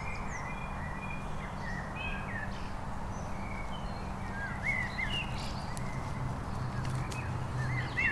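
Small birds chirping, many short rising and falling chirps scattered through, over a low steady hum.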